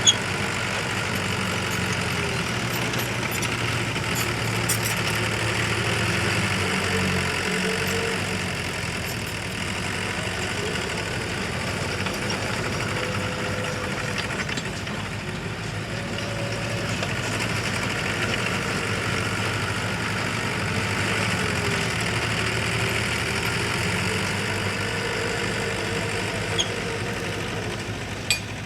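Diesel engine of heavy earth-moving machinery running steadily, its pitch rising and falling a little, with a sharp click near the start and another near the end.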